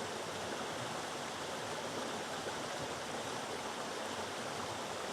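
River water rushing over boulders and a small waterfall: a steady, even rush with no change in level.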